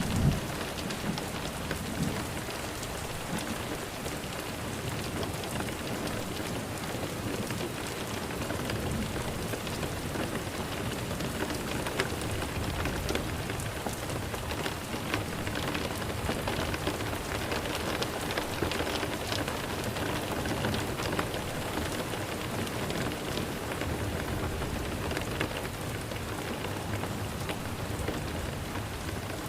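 Steady rain falling on a surface, an even hiss of drops, with the tail of a low thunder rumble dying away just at the start.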